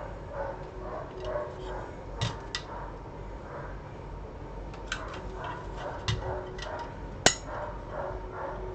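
A few sharp clicks or taps over a steady background hum, the loudest click about seven seconds in.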